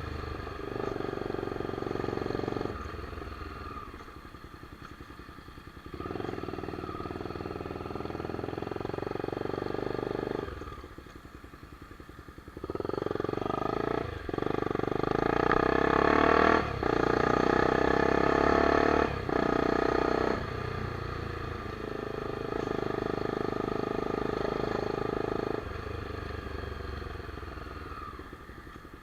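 Honda CBX 250 Twister's single-cylinder four-stroke engine ridden on the road, pulling hard through the gears several times and easing off in between. It is loudest about two-thirds of the way through.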